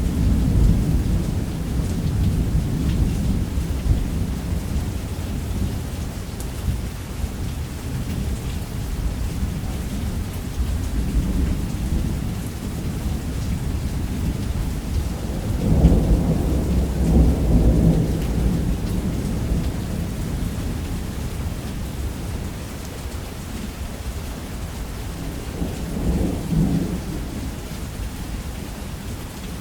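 Heavy rain falling steadily with rolling thunder: low rumbles that swell and fade, the loudest about halfway through and another shorter one near the end.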